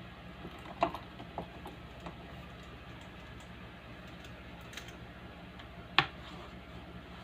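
Loudspeaker giving off a steady low electrical hum, the humming fault being fixed, with a few scattered clicks and taps: two sharp louder clicks, about a second in and about six seconds in.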